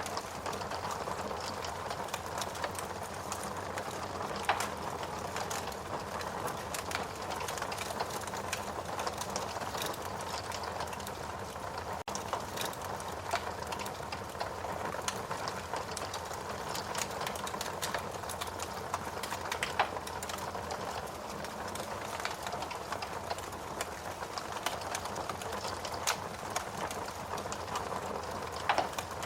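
Fire burning in a fireplace: a steady hiss dotted with scattered sharp crackles and pops.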